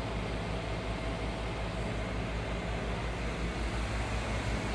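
Trane heat pump outdoor unit running in heat mode: a steady low compressor hum with fan noise and a thin steady tone above it.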